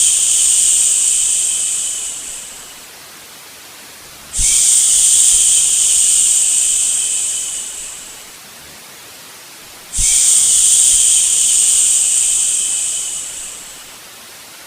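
Long shushing "shhh" sounds for soothing a baby, repeated about every five and a half seconds. Each starts suddenly with a soft low thump, holds for a couple of seconds and fades out. A faint steady hiss fills the gaps between them.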